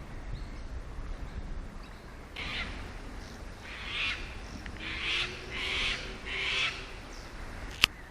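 A bird giving a series of about five hoarse, screechy calls, with a single sharp click near the end.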